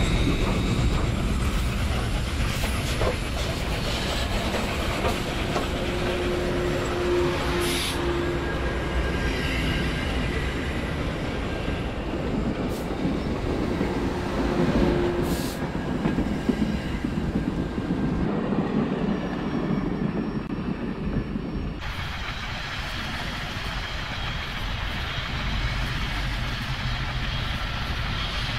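A train rolling along the rails, its wheels clacking over the rail joints with a steady rumble, and a short steady tone sounding twice. The sound changes abruptly about three quarters of the way through.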